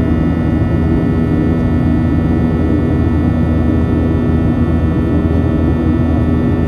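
Boeing 737 jet engines heard from inside the cabin during the climb: a steady drone with a low rumble and several steady humming tones.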